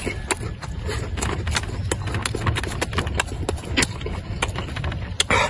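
A person chewing grilled pork belly, a steady run of sharp crunches about three a second, with a louder mouth sound near the end.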